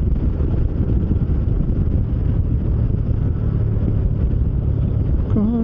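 Motorcycle riding at highway speed: wind rushing over the microphone with a steady low drone of engine and road underneath.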